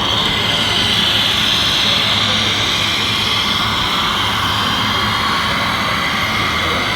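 Small electric motors of radio-controlled construction models running steadily, a high whine that wavers slowly in pitch over a background hiss.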